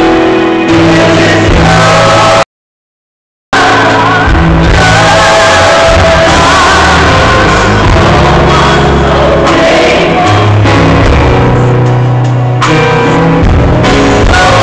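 Loud gospel music with singing and shouted voices, cutting out completely for about a second near the start.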